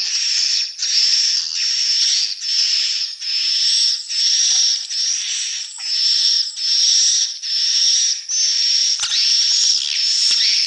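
Swiftlet calls: a steady run of short, high, buzzy twittering chirps repeated about every half second without a break.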